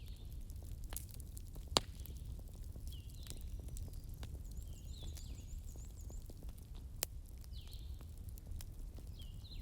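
Campfire crackling, with a low steady rumble of the flames and scattered sharp pops, the loudest just before two seconds in. Short, high, falling chirps of night creatures repeat throughout.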